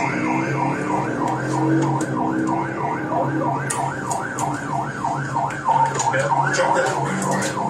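Police car siren in fast yelp mode, its pitch sweeping up and down about three to four times a second, over a low steady drone.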